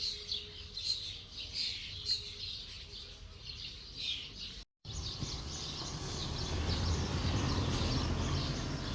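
Small birds chirping and singing in quick, overlapping calls. About halfway through the sound drops out for a moment, then the birdsong comes back denser over a steady low rumble.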